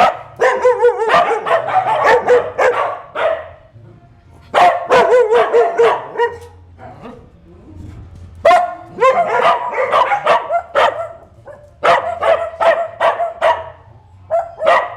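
Pet dogs barking in play, in quick runs of barks bunched into several bouts with short pauses between them.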